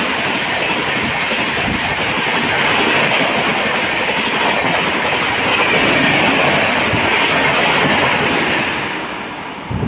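Indian Railways passenger train coaches rushing past at speed: a steady roar of wheels on rail with a few clacks over rail joints, fading near the end.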